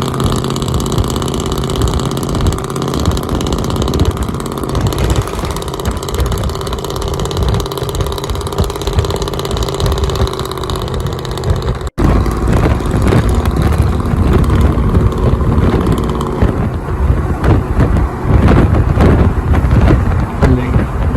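Trucks' engines running through loud straight-pipe exhausts on the highway, with road noise. There is a cut about twelve seconds in, after which the exhaust sound is rougher and more uneven.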